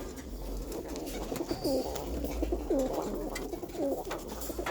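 Domestic pigeons cooing in a small room: a run of repeated low coos that swoop down and up in pitch.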